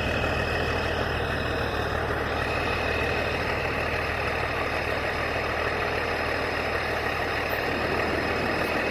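Heavy diesel truck engine idling steadily, with a steady high whine over the low rumble.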